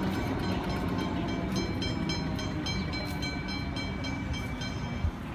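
Electric suburban train passing over a road level crossing, its rumble steady and then easing as it clears. The crossing's warning bells ring rapidly throughout, stopping near the end.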